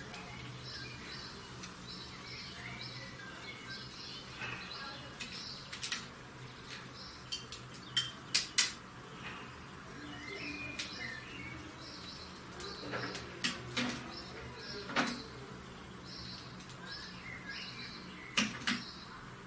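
European greenfinch calling with short repeated high chirps and twitters, mixed with scattered sharp clicks and taps, the loudest a few quick ones about eight seconds in.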